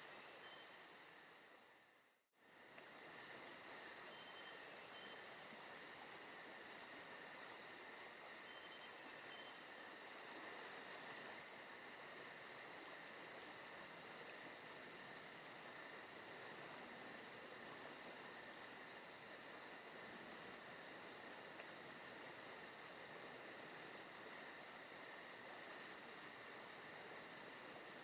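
Forest ambience of crickets and other insects trilling steadily, with a fast high pulsing. The sound briefly fades almost to nothing about two seconds in, then comes back.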